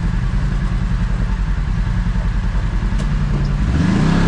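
Kawasaki KRX side-by-side's engine running at low speed with an even pulsing beat, then picking up in pitch as throttle is added near the end.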